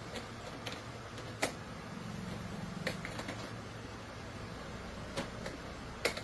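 Factory machinery running with a steady low hum, with a few sharp clicks and knocks of metal or pipe handling, the loudest about a second and a half in and near the end.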